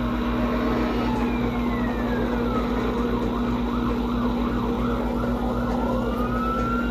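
Fire apparatus sirens sounding: a long falling wail, then a fast yelp, then a rising wail near the end, over a steady low engine drone.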